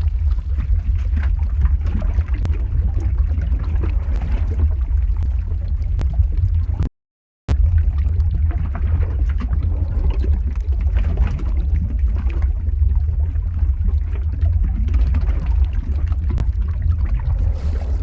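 Lava flow ambience sound effect: a steady deep rumble with a rough, grainy layer above it. The sound cuts out completely for about half a second around seven seconds in, then resumes.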